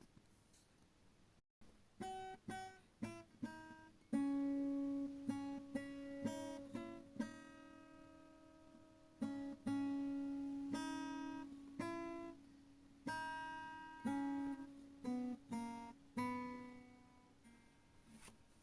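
Acoustic guitar music: plucked notes and chords, each struck sharply and ringing out as it fades, in a slow, unhurried run.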